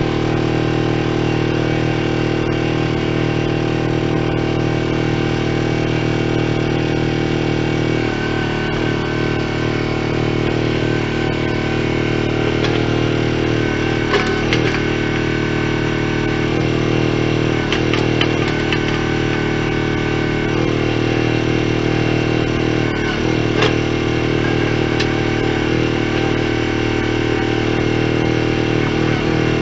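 Trencher's engine running steadily, its pitch shifting slightly about eight seconds in, with a few short knocks and rattles over it.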